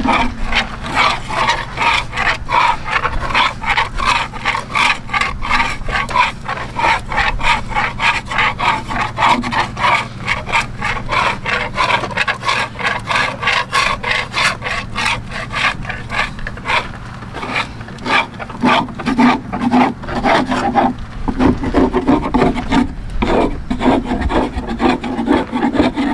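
Hand scraper scraping softened, stripper-loosened antifouling bottom paint off a boat hull in quick repeated strokes.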